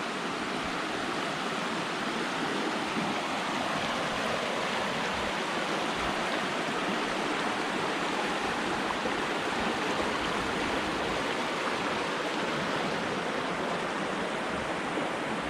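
Steady, even rush of a cascading woodland stream.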